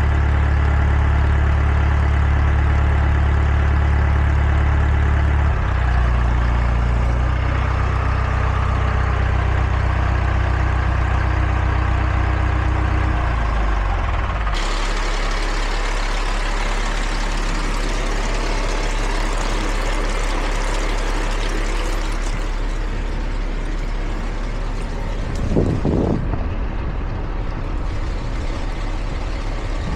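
Heavy diesel truck engine running with a steady low drone that shifts in pitch twice and then drops away about halfway through, leaving a quieter rumble. A short louder burst comes near the end.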